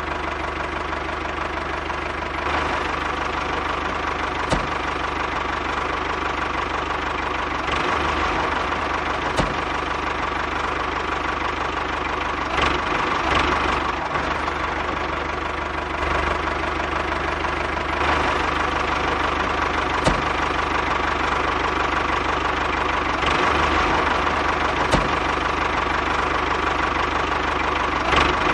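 A mini tractor's small engine-driven water pump running steadily with a fast knocking, idling rhythm, and a few sharp clicks along the way.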